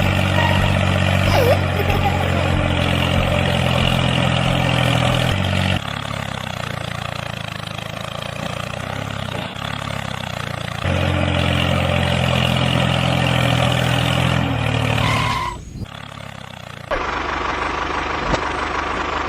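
A motor running steadily with a low, even hum. It changes abruptly about a third and two-thirds of the way through, and cuts out briefly near the end before starting up again.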